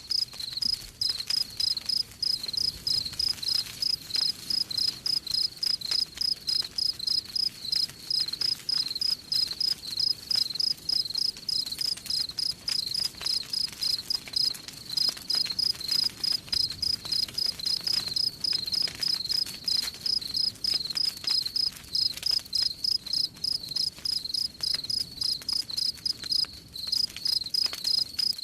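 A cricket chirping steadily, high-pitched chirps in an even, unbroken rhythm, over faint crackling of a wood campfire.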